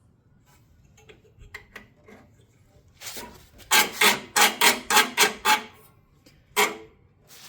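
A quick run of rasping, back-and-forth scraping strokes, about four a second for two seconds, after some faint clicks, then one more stroke near the end.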